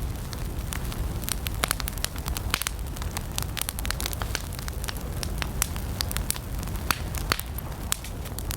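Wood campfire burning, with frequent irregular sharp crackles and pops over a low steady rumble of the flames.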